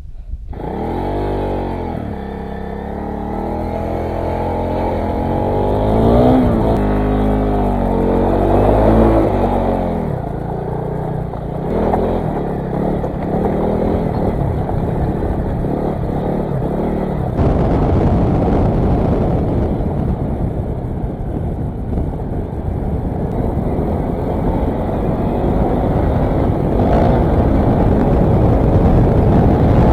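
Motorcycle engine revving up and shifting through gears, its pitch climbing and dropping several times over the first ten seconds. After that it settles into a steadier, noisier drone as the bike runs on at speed, slowly getting louder.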